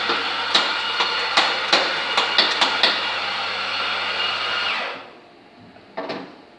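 Coffee grinder running, with a run of sharp clicks through the first three seconds, then cutting off about five seconds in. A single knock follows.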